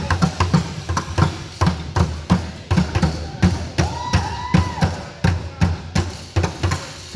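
Basketball being dribbled on a gym floor, about three bounces a second. A sneaker squeaks briefly on the court near the middle.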